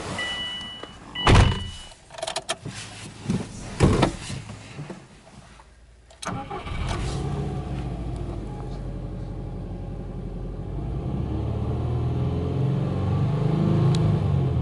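Subaru Impreza WRX's turbocharged flat-four (boxer) engine starting with a sudden catch about six seconds in, then running at a fast cold idle that rises in speed and loudness near the end. Before the start there is a short two-tone warning chime and several knocks and clunks inside the car.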